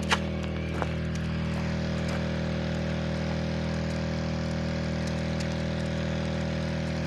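A steady, unchanging engine drone, with one sharp click just after the start and a fainter click a little under a second in.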